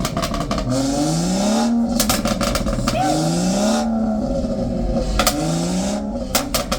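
A performance car's engine is revved hard three times while parked, each rev climbing in pitch and then dropping back. Clusters of sharp exhaust pops and crackles come as the revs fall.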